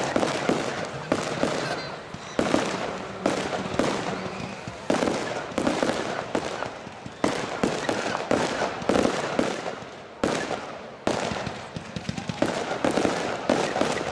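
Large fireworks display: shells bursting one after another about every half second to a second, each sharp bang trailing off, with no let-up.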